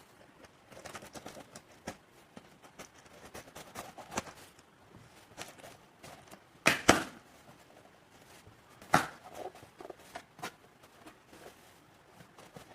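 Hands handling a skincare product's packaging: scattered taps, clicks and rustles, with two louder sharp noises about seven and nine seconds in.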